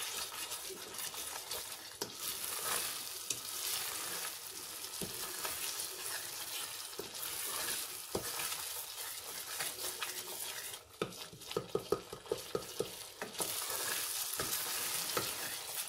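Ground chickpea and potato mixture frying in masala in a stainless steel pot, sizzling steadily while a spoon stirs and scrapes through it. A run of sharper knocks comes about two-thirds of the way through.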